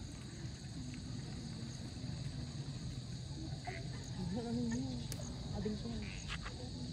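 A steady chorus of insects such as crickets, a continuous high-pitched trill over a low outdoor rumble, with faint voices in the background about four to six seconds in.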